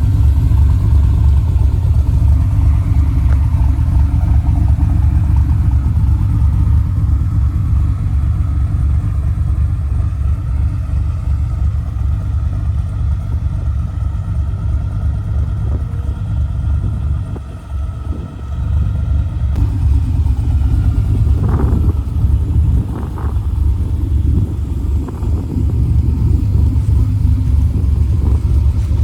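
Cammed 5.3 LS V8 running through a full 2.5-inch exhaust with an X-pipe and Flowmaster FlowFX mufflers, idling with a choppy, uneven lope from its stage 2 cam. Past halfway the sound dips briefly, then a few short throttle blips follow.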